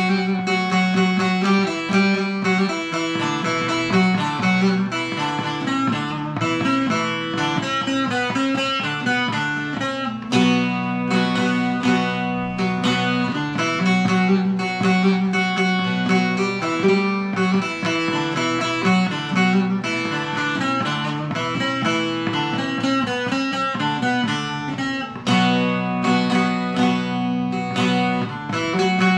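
Bağlama, the Turkish long-necked lute, played solo with quick plucked and strummed strokes and a recurring low note beneath the melody.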